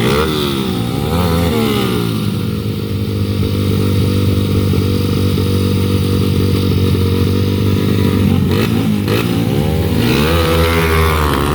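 Motorcycle engines at racing speed. The pitch rises and falls over the first couple of seconds, holds at a steady high pitch for several seconds, then rises and falls again near the end.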